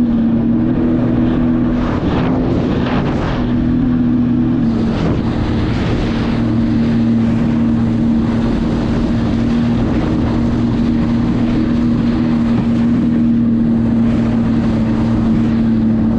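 Jet ski engine running at a steady cruising speed, a constant drone under loud rushing water and wind on the microphone.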